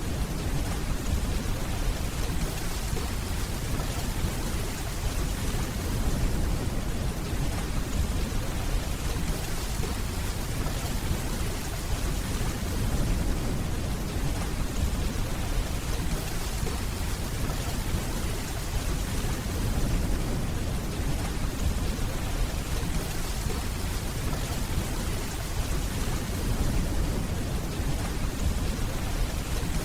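Steady rainfall with a continuous low rumble of distant rolling thunder beneath it.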